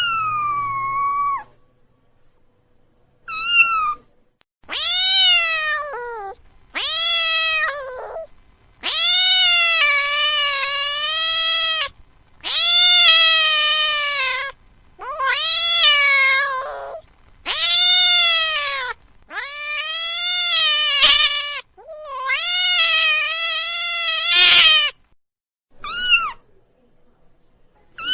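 Domestic cat meowing over and over: about eleven long, drawn-out meows, each rising and then falling in pitch, with short pauses between them.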